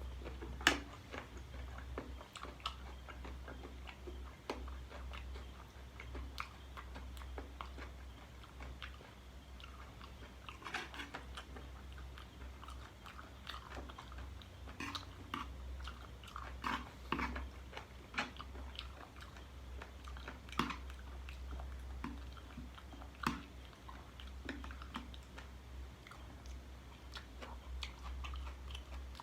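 A person chewing and biting spicy chicken feet salad close to the microphone, with irregular crunches and small clicks.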